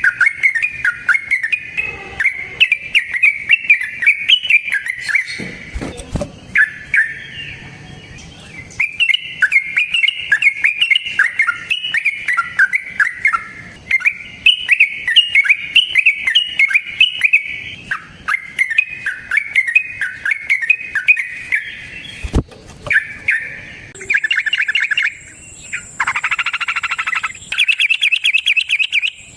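Yellow-vented bulbul (trucukan) singing long runs of rapid chattering notes, phrase after phrase with short breaks. Near the end a buzzier trilling call and a thin steady high whine come in.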